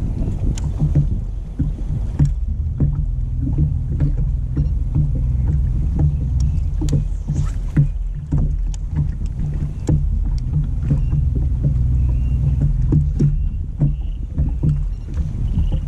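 Small boat's motor running steadily with a low rumble, with scattered light taps over it.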